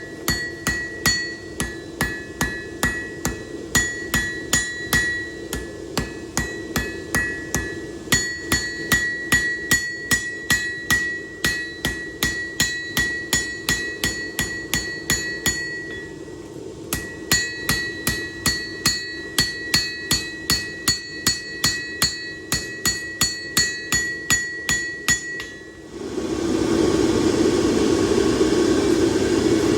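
Hammer blows on an anvil forging a knife blade, about three strikes a second, the anvil ringing a clear high tone after each blow over a steady low hum. The hammering pauses briefly about halfway, then stops near the end as a louder, steady rushing noise takes over.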